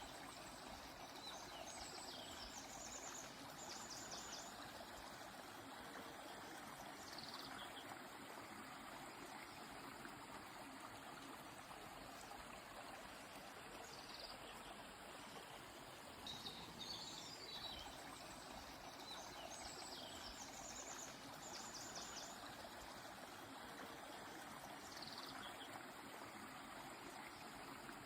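A stream flowing steadily and faintly, with high bird chirps and quick trills coming in several times over it. The same sequence of calls comes round again about sixteen seconds later.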